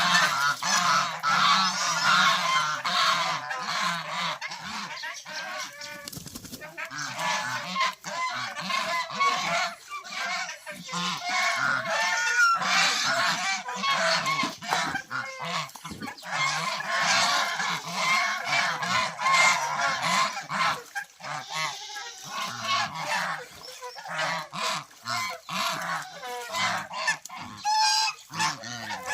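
Flock of domestic geese honking, with many calls overlapping continuously.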